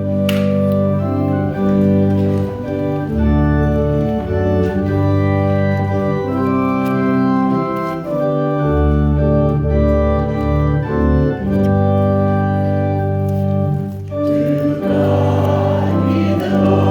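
Organ playing held chords that change every second or two; a choir comes in singing about fifteen seconds in.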